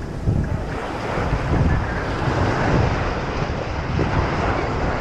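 Wind buffeting the microphone over the steady rushing wash of ocean surf breaking on the beach.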